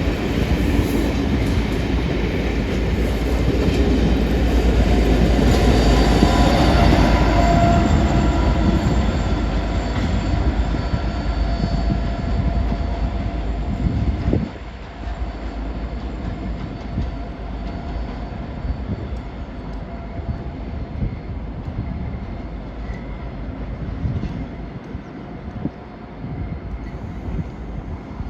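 A train running past on the tracks, with rumbling wheel noise and some faint high wheel squeal. It is loudest several seconds in, then drops off sharply about halfway through, leaving quieter running noise.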